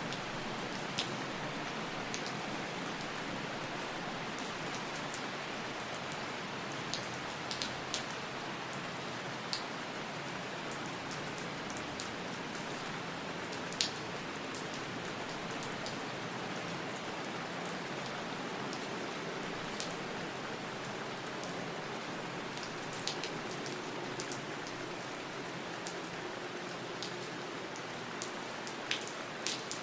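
Steady rain falling, an even hiss with the sharper taps of individual drops landing every second or so.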